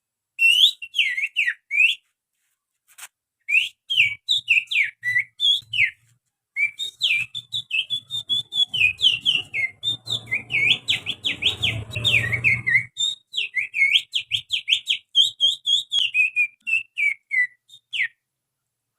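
Human finger-whistling imitating the song of an oriental magpie-robin (kacer): quick, chattering, gliding whistled notes in three runs, the longest from about six seconds to near the end. A faint low rumble sits under the middle of the last run.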